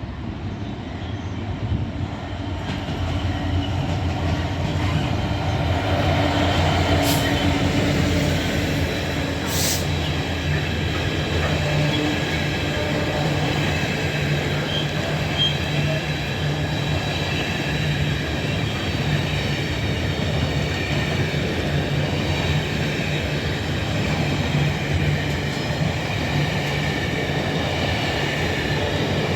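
A GBRf Class 66 diesel locomotive, with its two-stroke V12 engine, hauls a freight train through the station. The engine grows louder over the first few seconds as it draws near, then the steady running of the train holds, with a faint high wheel squeal. Two sharp clicks come a few seconds apart, a quarter of the way in.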